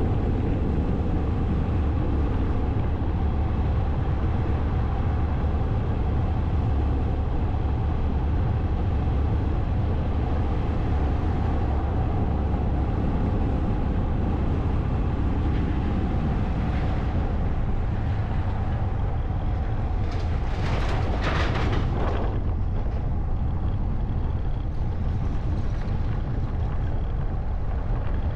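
Motorcycle on the move: steady low rumble of engine and wind on the microphone, with a brief louder rushing noise about three-quarters of the way through.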